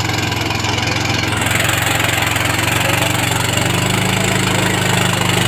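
Swaraj CODE compact tractor's engine running steadily with an even low hum, its pitch edging up slightly near the end.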